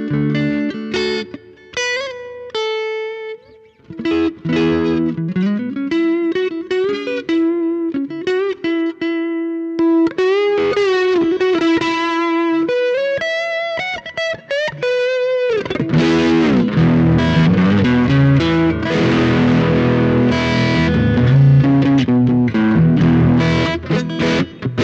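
Electric guitar played through a Behringer GDI21 and Cuvave ODrive Blues overdrive into a Hotone Siva Boogie, with a distorted tube-amp-like tone. It starts with single-note lead phrases with string bends, then about fifteen seconds in switches to louder, denser overdriven chords.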